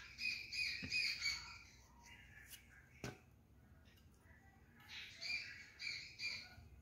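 A bird calling in two bouts of quick repeated chirps, one at the start and another about five seconds in, with a single sharp click near the middle.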